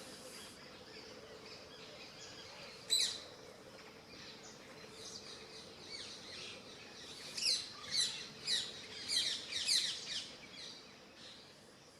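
Birds chirping: short, sharp calls that sweep downward in pitch. There is one loud call about three seconds in, then a quicker run of loud chirps, about two a second, in the second half.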